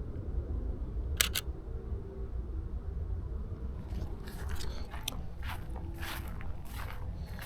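A camera shutter clicks once about a second in, a quick double snap, and from about halfway on footsteps crunch irregularly on the trail's gravel or sand. A steady low rumble runs underneath.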